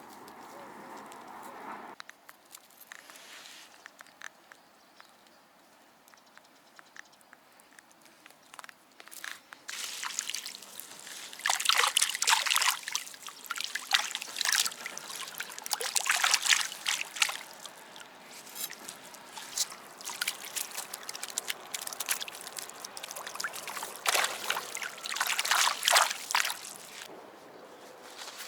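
Water sloshing and dripping, with irregular bursts of crackling and clicks, from a heavy snagged object pulled out of the river as it is handled.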